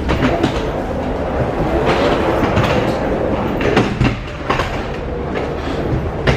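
Interior noise of a moving vehicle: a steady rumble with irregular clacks and knocks throughout.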